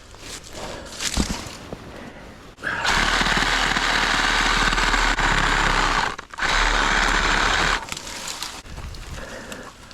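Reciprocating saw (Sawzall) cutting through tree wood in two runs, about three seconds and then about a second and a half, with a brief stop between. Before the cutting there is quieter handling noise and a single knock.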